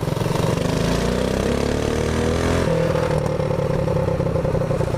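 Predator 212cc single-cylinder mini bike engine running under throttle while riding. Its note shifts in pitch over the first two and a half seconds, then holds steady at a constant speed.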